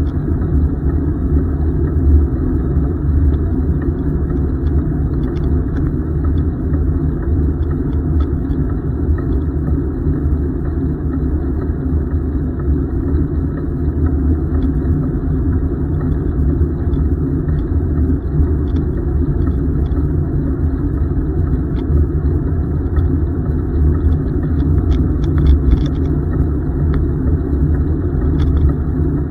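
Steady low wind rumble buffeting the microphone of a camera riding along on a moving bicycle.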